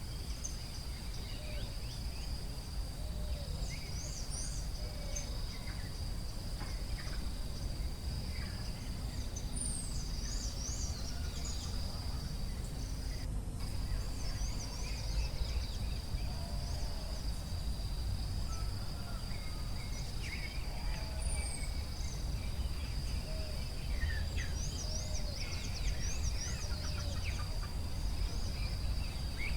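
Forest ambience: a steady high insect drone with many birds chirping and whistling over it, a few lower calls now and then, and a low rumble underneath.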